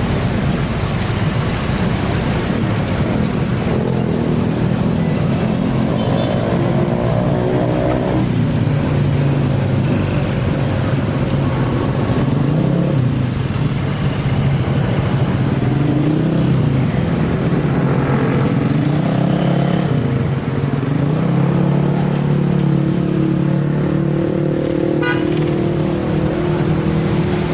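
Motor vehicle engines running and revving in heavy traffic, their pitches rising and falling.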